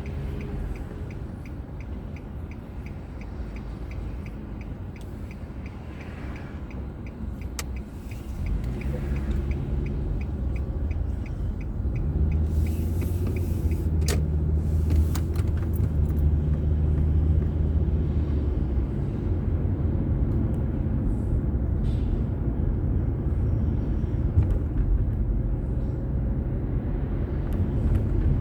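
Car cabin noise picked up by a dashboard drive recorder: engine and road drone, with a light, even ticking during the first third. About eight seconds in the drone grows louder, with a stronger engine hum from about twelve to nineteen seconds as the car pulls away and gathers speed.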